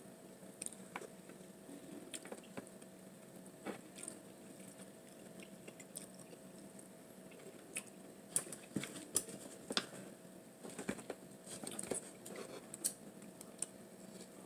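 Close-up eating sounds of someone chewing lobster meat: quiet chewing with scattered small clicks and snaps, more frequent in the second half.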